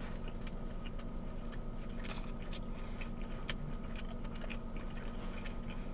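Close-up chewing of a mouthful of burger with crispy onion rings: many small wet mouth clicks and soft crunches, over a steady low hum.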